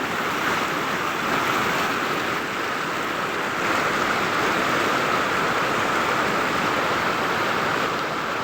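Floodwater in a swollen ravine stream rushing past in a steady, unbroken wash of noise.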